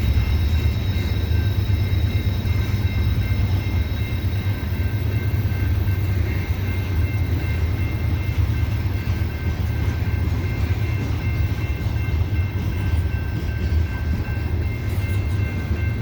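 A loaded coal train of hopper cars rolling slowly up a steep grade, a heavy steady low rumble with the diesel locomotives working hard. Several faint, steady high-pitched tones sit over the rumble throughout.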